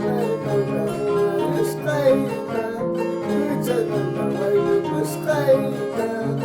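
Andean harp plucking a Peruvian folk tune, with a bass line under repeated plucked notes and a wavering, sliding melody line above.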